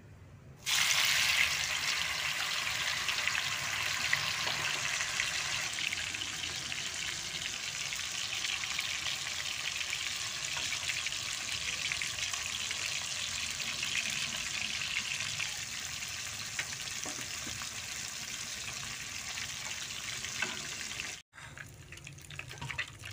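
Chicken pieces sizzling as they fry in hot oil in a karahi, stirred with a wooden spatula. The sizzle starts suddenly about a second in, as the chicken goes into the oil, eases a little over time, and cuts off shortly before the end.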